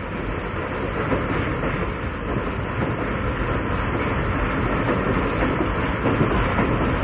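Steam train running: a steady, noisy rumble and clatter of wheels and machinery that grows slightly louder.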